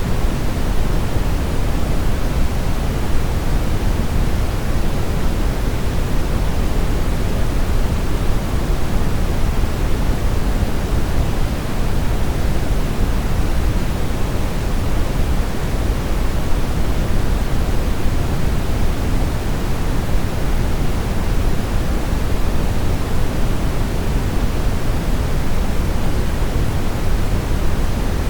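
Steady brown noise: an even, unchanging rumble-heavy hiss, strongest in the lows and fading toward the highs, generated as a sleep aid.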